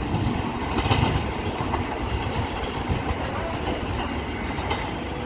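Indian Railways train running through a station at speed without stopping: the steady, deep rumble of its wheels on the rails.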